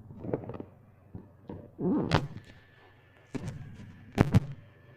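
A few dull thumps and knocks, the sharpest two close together about four seconds in.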